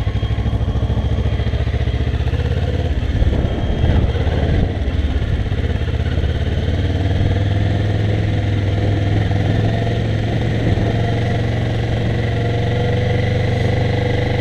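Kawasaki ER-6n's parallel-twin engine running as the motorcycle is ridden. The engine note is unsettled for a moment about three to five seconds in, then holds steady.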